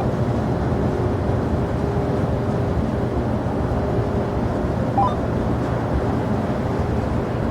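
Steady low rumble of jet airliner engines, with no rise or fall in pitch.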